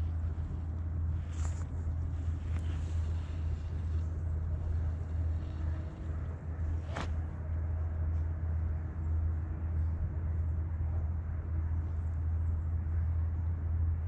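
Steady low rumble throughout, with two brief sharp clicks, one about a second and a half in and a louder one about seven seconds in.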